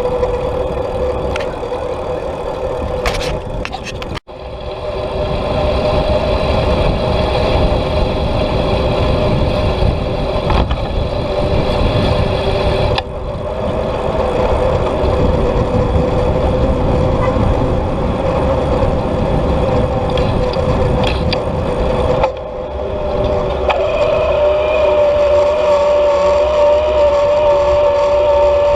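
Wind rushing over the microphone and tyre noise while riding a bicycle, with a steady drone running underneath.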